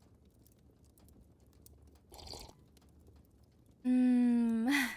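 A woman sips a hot drink, then hums a long, pleased "mmm" near the end, held on one pitch and rising at the close. Faint fireplace crackle ticks underneath.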